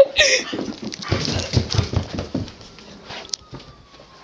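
A wet, freshly bathed dog moving about, with irregular low scuffling and rubbing noises that fade after a couple of seconds.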